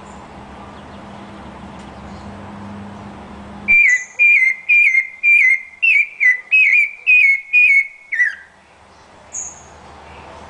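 Steady background hiss, then a bird whistling a run of about ten clear, identical notes, evenly spaced at a bit over two a second. The run ends in a falling note, and a brief high call follows.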